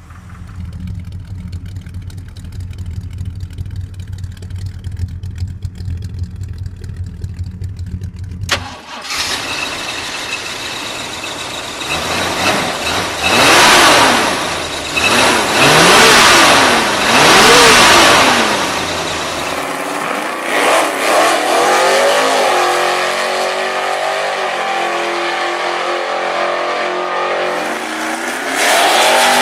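Muscle car engines: a low rumble at first, then after a sudden change a louder engine revving up and down several times, and then running steadily with a wavering pitch.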